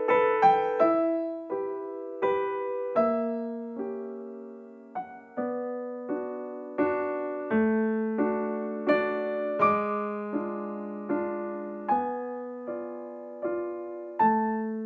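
Background piano music: a slow, gentle melody of single struck notes, each ringing and fading.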